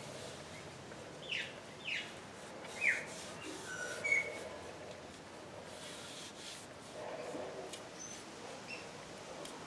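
Small birds chirping: three sharp, falling chirps in the first three seconds, then shorter whistled notes that grow fainter, over faint steady room noise.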